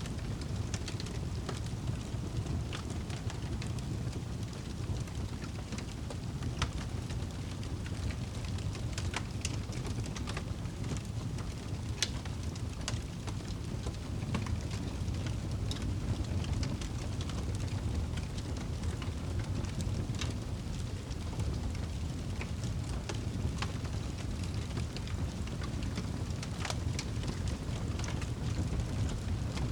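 Wood fire burning in a fireplace, crackling and popping with frequent sharp snaps over a steady low rumble.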